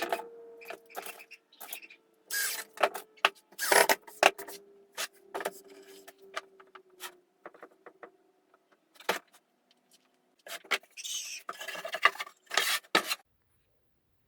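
Workshop handling sounds: scattered knocks and clicks of wood pieces and hand tools, with a faint tone sliding slowly lower over the first several seconds, like a motor winding down, and a couple of short, scraping bursts near the end.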